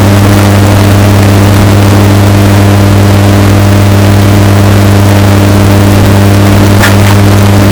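Washing machine running with a steady low hum. The audio is heavily bass-boosted and distorted at near full volume. There is a faint click about seven seconds in.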